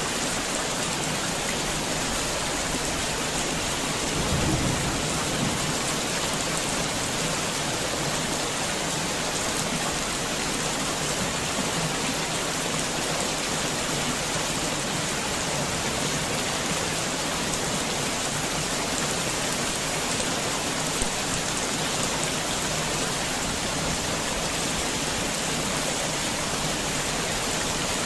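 Heavy rain falling steadily, a dense even hiss of drops. About four seconds in, a brief low rumble swells up under the rain and fades.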